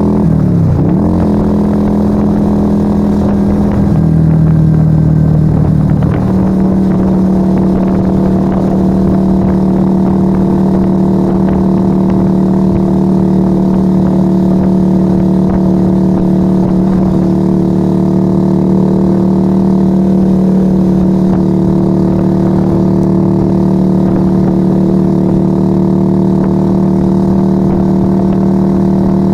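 Yamaha XV125 Virago's 125 cc V-twin running loud through a Turbo Kit exhaust with the dB killers removed, heard onboard while riding. The engine note dips and picks back up about a second in, drops lower about four seconds in and comes back up about six seconds in, then holds at steady revs for the rest.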